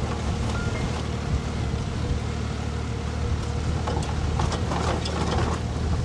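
A vehicle engine running steadily with a low hum, with some faint clicks in the second half.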